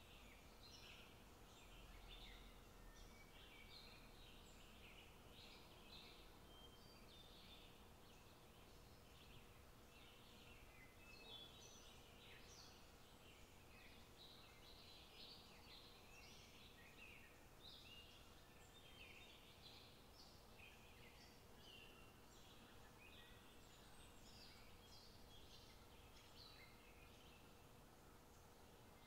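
Faint birds chirping, many short high calls throughout, over a low steady hum.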